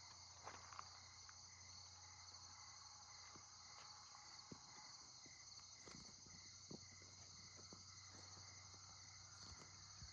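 Faint, steady chorus of crickets and other night insects, with a few soft clicks.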